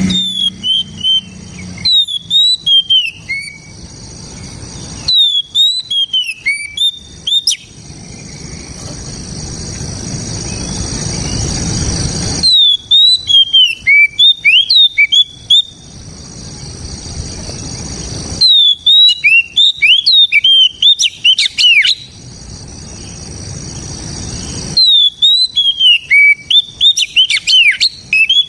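Oriental magpie-robin singing loudly in repeated phrases of quick, sliding whistled notes. Each phrase lasts a second or two and comes back every five or six seconds, over a steady high hiss.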